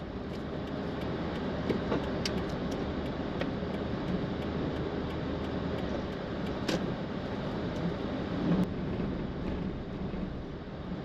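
Suzuki Jimny driving, a steady engine and road rumble heard inside the cabin, with a few sharp clicks or rattles here and there, the clearest about two seconds in and near the middle.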